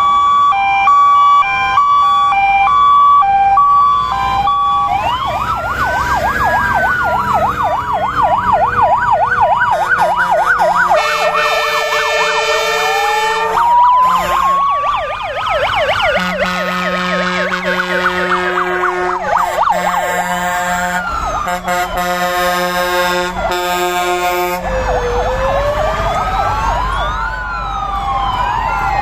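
Several fire engines' sirens sounding at once as the vehicles pass: a two-tone hi-lo siren at first, then fast yelping sweeps and slow rising-and-falling wails overlapping. Horn blasts cut in near the middle.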